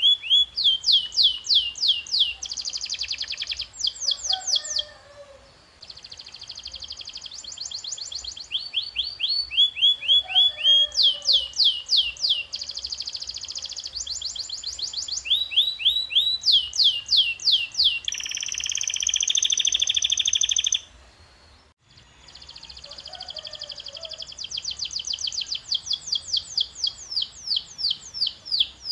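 Domestic canary singing a long, loud song: runs of rapid repeated down-sweeping whistled notes and fast trills, with a harsher buzzing phrase lasting about three seconds and a brief pause soon after.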